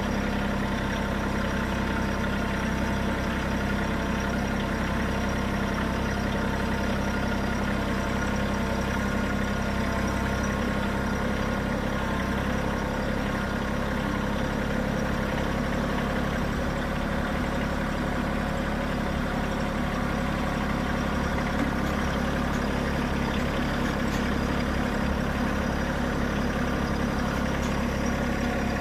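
Bad Boy 3026H compact tractor's engine running steadily at low speed, pulling a heavy load of logs carried on the front forks.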